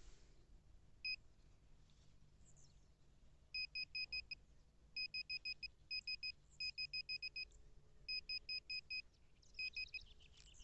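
Metal-detecting pinpointer beeping as it locates a target in the dug soil: one short high beep, then repeated bursts of rapid identical beeps, about six a second.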